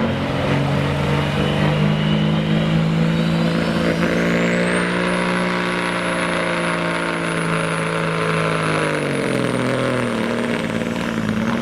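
Diesel semi truck engine held at a steady high speed under load on a pull, its turbocharger whistle rising over the first few seconds to a high steady pitch. About nine seconds in, the engine lets off and the whistle winds down.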